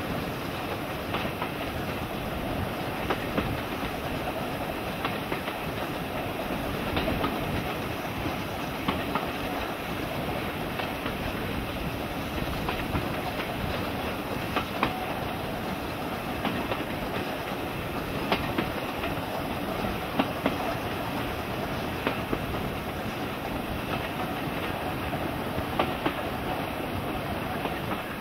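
A steam-hauled passenger train running, heard from an open coach window: a steady rumble of the carriages with sharp clicks of the wheels going over rail joints every second or two.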